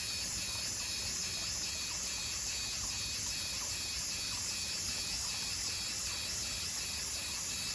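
Insect chorus: a steady high-pitched hum with a pulsing call repeating about two to three times a second.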